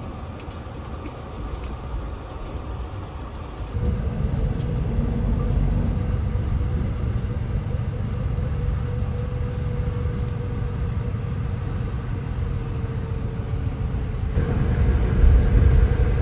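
Steady low rumble of a moving passenger vehicle heard from inside, with a faint constant hum. The sound changes abruptly twice, about four seconds in and near the end, as separate clips are joined.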